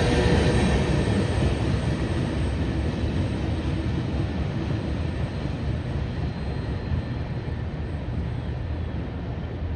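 Freight train rolling past, a steady low rumble of wheels on the rails that slowly fades as the end of the train goes by.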